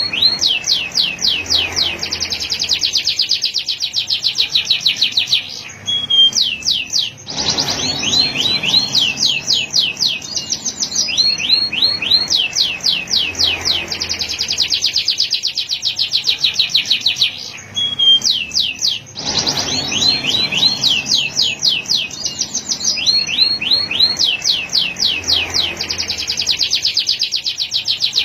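Male canary singing: long phrases of very fast, high-pitched trills made of quickly repeated sweeping notes, changing from one trill type to the next, with short breaks about six seconds in and again about eighteen seconds in.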